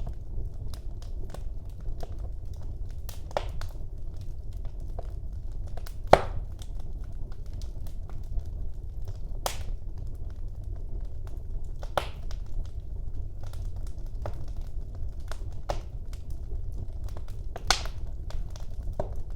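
Wood fire burning in a fireplace: a steady low rumble of flames with frequent small crackles and a few louder sharp pops.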